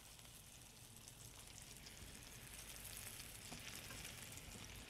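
Breaded chicken bites shallow-frying in hot oil: a faint, steady sizzle with fine crackling.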